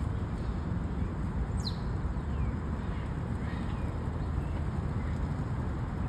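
Steady low outdoor rumble with bird calls over it: one sharp, high, falling call about one and a half seconds in, then a few fainter calls.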